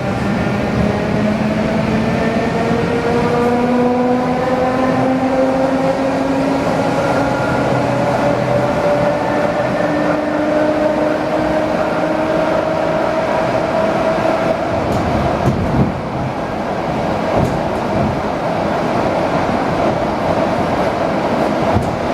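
ED4M electric multiple unit accelerating: its traction motors whine in several tones that climb steadily in pitch over a steady rolling rumble. After about fifteen seconds the whine fades, leaving the even running noise of the train on the rails.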